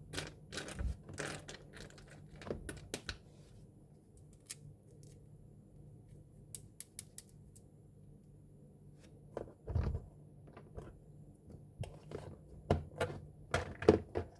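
Small plastic miniature kitchen toys being handled and set down, with light clicks and taps in clusters and a quieter stretch in the middle. A duller knock comes about ten seconds in.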